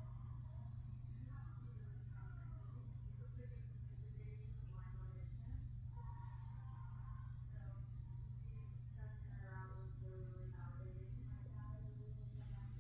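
Carolina ground cricket singing in one continuous high-pitched trill, which breaks off for an instant about nine seconds in.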